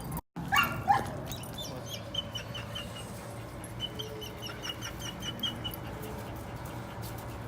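A dog yelps once about half a second in, then gives a long run of short, high-pitched whimpers.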